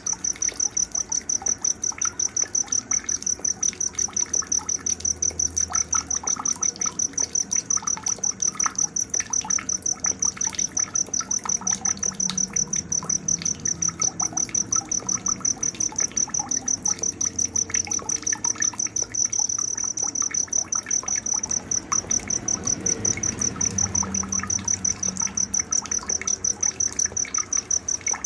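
A cricket chirping steadily, a high, even pulsing trill at about four pulses a second, over a night nature soundscape with fainter scattered chirps lower in pitch.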